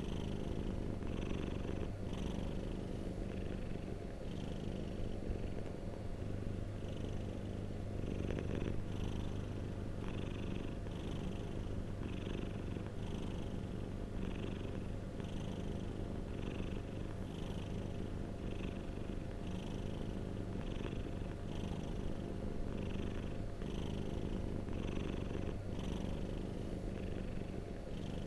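Domestic cat purring steadily, a continuous low rumble with a soft pulse about once a second.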